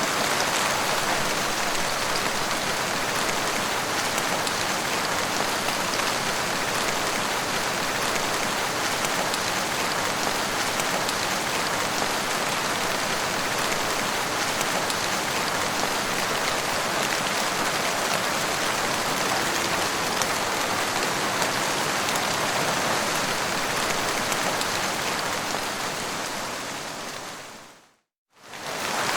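Steady rain: a continuous hiss of falling rain with fine drop patter. Near the end it fades out to a brief moment of silence and fades back in.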